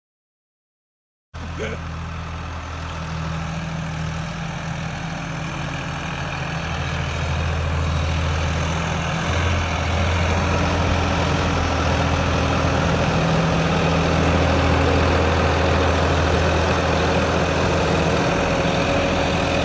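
Silence for just over a second, then a tractor's diesel engine running steadily, growing louder over the next several seconds and then holding.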